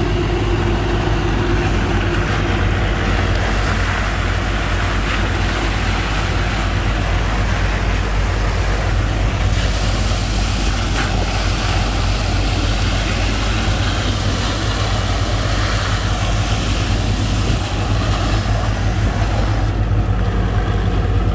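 Sand-pumping boat's engine and pump running steadily under load, with a rushing hiss of water and sand slurry over it that thins out near the end.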